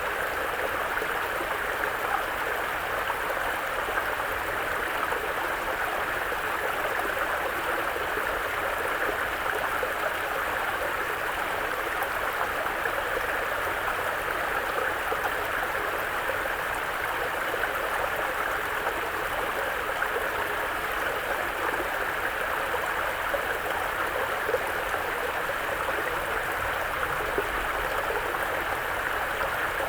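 Mountain brook flowing over rocks: a steady rush of running water with gurgling.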